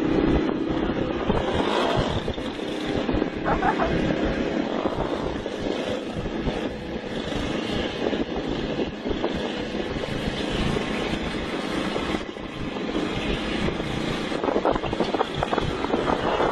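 Motorcycle engine running, its note rising and falling unsteadily under a rushing noise.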